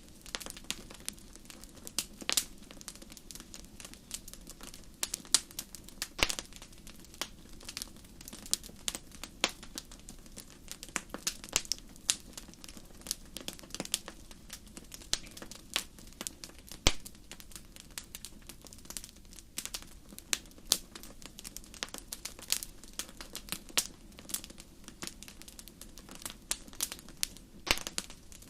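Wood fire in a fireplace crackling: irregular sharp pops and snaps, several a second, over a soft steady background.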